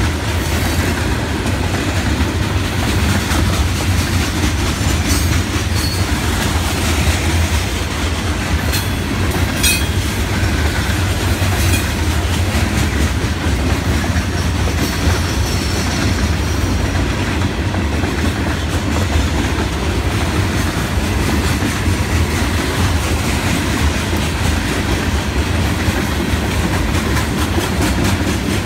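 Hopper cars of a Florida East Coast Railway freight train rolling steadily past close by: a continuous rumble and clatter of steel wheels on rail, with a few faint high squeals and clicks along the way.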